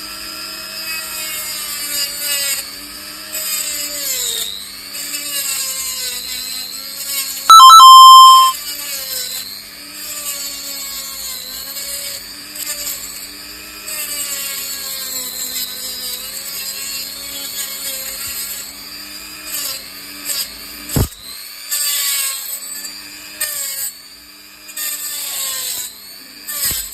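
Electric grinder running and grinding a razor blade, its high motor whine dipping and recovering as the blade is pressed against the disc, with a hissing grinding noise on top. A very loud, brief blaring tone cuts in about eight seconds in.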